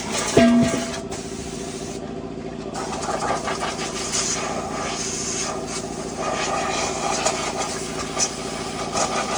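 A motor running steadily under an even hiss, with a brief pitched squeak about half a second in.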